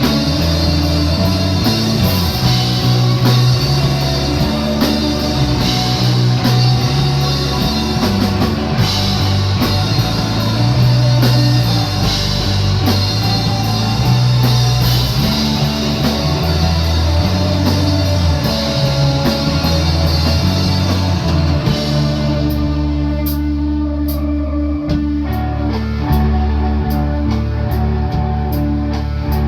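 Rock band playing live in a studio, with electric guitar, bass and drum kit. About 22 seconds in, the cymbals and drums drop back, leaving sustained guitar and bass with only occasional hits.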